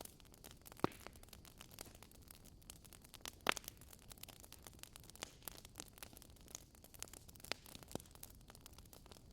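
Fireplace fire crackling quietly: scattered small pops and snaps over a soft steady hiss, with sharper pops about a second in and about three and a half seconds in.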